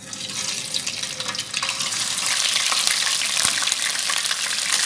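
Ginger-garlic paste sizzling and crackling in hot oil in a wok as it is stirred with a spoon; the sizzle starts suddenly as the paste hits the oil and grows louder.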